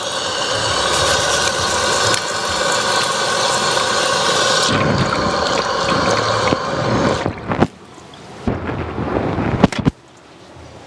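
Water running hard, as from a restroom tap or flush, then stopping, with a few sharp knocks near the end.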